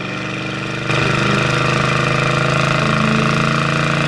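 1971 Plymouth Road Runner's 383 big-block V8 running while driving. It gets louder about a second in and then holds a steady note.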